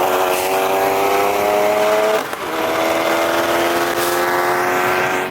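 Supercharged 5.0 V8 of a 2015 Mustang GT at full throttle, its pitch climbing steadily as it accelerates, with a quick break and drop in pitch for an upshift a little over two seconds in, then climbing again.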